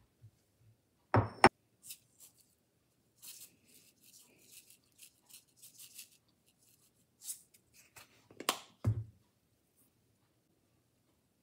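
Kitchen utensils handled against dishware: a sharp ringing clink about a second in, soft scraping and tapping, then a few knocks with a dull thud near the end.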